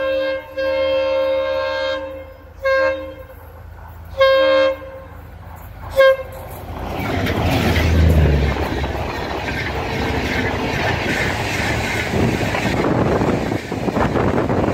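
Diesel locomotive's horn sounding a series of blasts as the train approaches: one long blast followed by several short ones. Then the locomotive passes close by with a deep engine rumble about eight seconds in, and the coaches roll past with steady wheel clatter on the rails.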